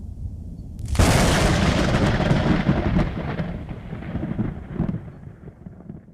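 Thunder: a low rumble, then a sharp crack about a second in that rolls on and fades away over the next several seconds.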